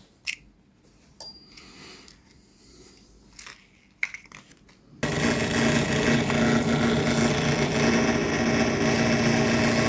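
A few small metallic clicks and taps of small engine parts being handled and fitted. About five seconds in, a loud, steady mechanical drone from a small motor starts abruptly and holds.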